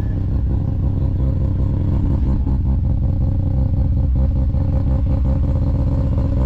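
A car engine idling close by: a loud, steady, deep rumble.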